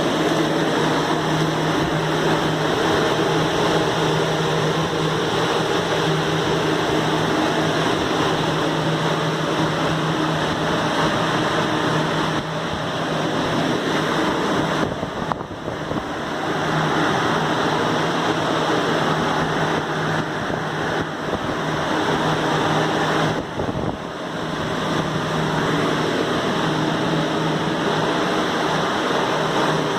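Water-damage drying equipment (blower fans and dehumidifiers) running, really noisy: a steady blowing rush with a constant low hum. The level dips briefly twice, about halfway through and again about two-thirds through.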